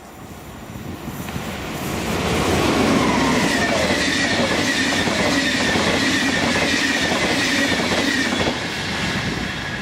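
Train passing at speed: the rumble builds to a loud steady pass with rhythmic wheel clicks over the rail joints and a whine that falls in pitch, then eases off near the end.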